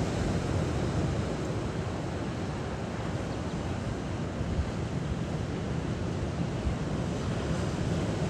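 Moving water rushing steadily, with wind rumbling on the microphone.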